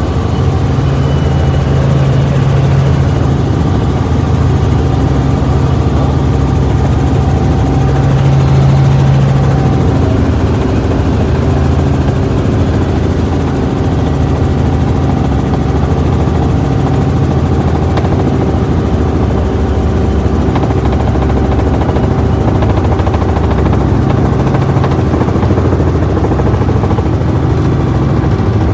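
Helicopter in flight, its engine and rotor making a steady, loud drone heard from inside the cabin.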